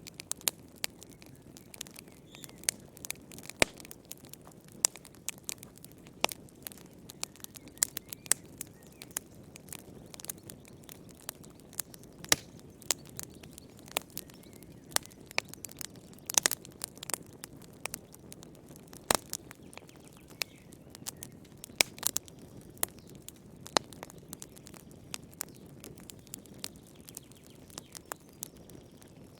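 Wood fire burning in a fireplace, crackling with irregular sharp pops over a low, steady rush of flame.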